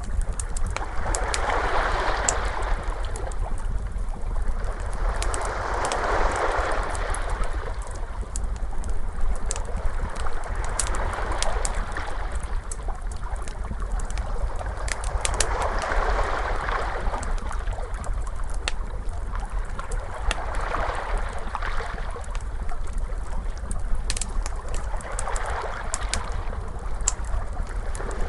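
Ocean waves washing in, in slow surges every four to five seconds, over a steady low rumble, mixed with the scattered sharp pops and crackles of a wood fire.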